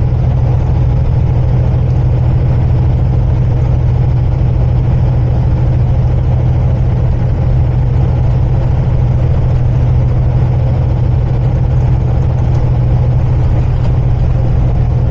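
Semi-truck diesel engine and road noise droning steadily inside the cab while driving at cruising speed, a constant low hum with no change in pitch.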